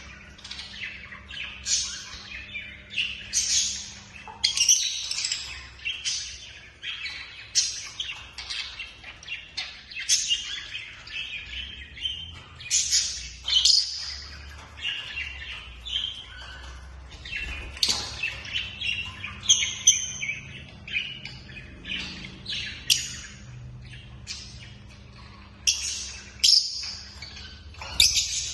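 Lovebirds chirping: many short, high, sharp calls in quick, irregular succession.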